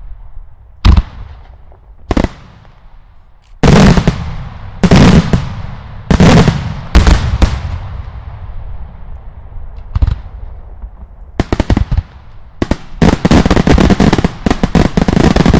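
Daylight fireworks exploding: loud single bangs, each with a long fading echo, at irregular intervals of about one to two seconds, some in quick pairs. Near the end they give way to a rapid barrage of many reports close together.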